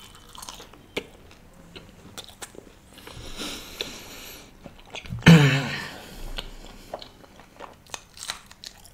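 Close-miked mouth sounds of a person eating: chewing with many short wet clicks and lip smacks. A short, louder voiced sound from the eater stands out about five seconds in.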